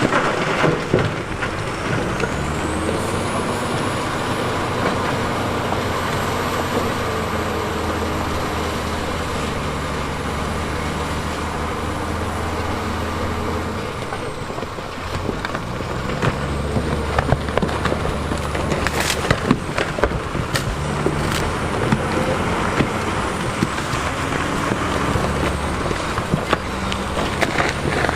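Heavy diesel earthmoving machine running under load. It eases off about halfway through, then revs back up. A faint high whine rises and falls above the engine, and sharp knocks and clanks come in the second half.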